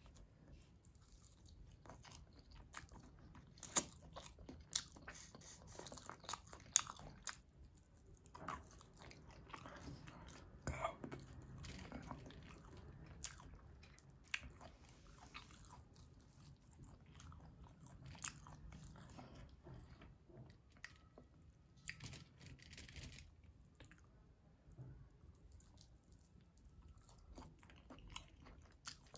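Close-up chewing of mouthfuls of mutton biryani eaten by hand: irregular, crackly mouth sounds, with a few sharp clicks about four to seven seconds in.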